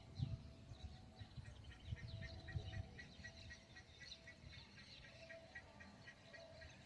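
A bird calling faintly in a long run of short, evenly spaced high notes, about four a second, with scattered low thumps underneath.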